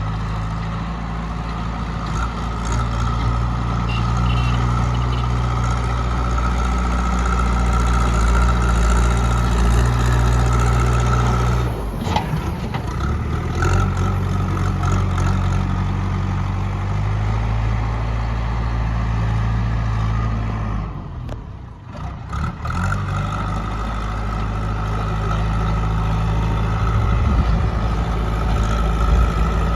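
Diesel engine of a JCB 3DX backhoe loader running while it levels mud, its note rising and falling with the load. The sound breaks off sharply about twelve seconds in and drops away briefly a little past the twenty-second mark.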